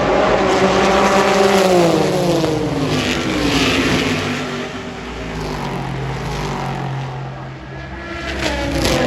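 Race cars passing at speed: one car's engine note drops in pitch as it goes by over the first few seconds, engines keep running lower in the middle, and a second car sweeps past near the end.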